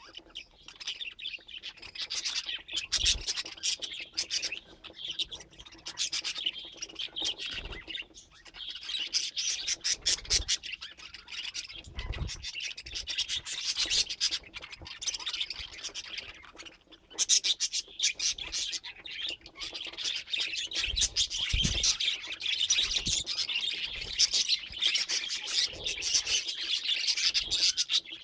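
Budgerigars chattering and warbling continuously, in rapid chirps and clicks, with a few dull low thumps here and there.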